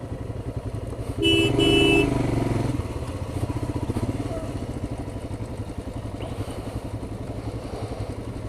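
Royal Enfield Himalayan's single-cylinder engine running steadily under way, with a horn honking twice in quick succession about a second in.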